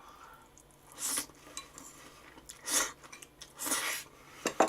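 A person chewing crunchy food close to the microphone: three crunches about a second apart, with a couple of sharp clicks near the end.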